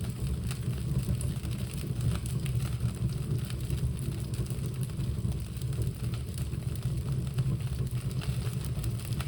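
Fire burning in a fireplace: a steady low roar with scattered small crackles.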